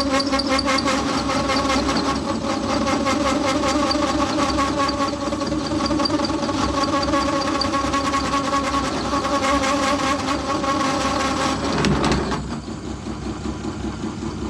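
Metal lathe parting off a spacer with a cut-off tool that is chattering, giving a steady ringing tone over the machine's running noise; a blade set too long is the suspected cause. About twelve seconds in, the ringing stops and only the lathe running is left.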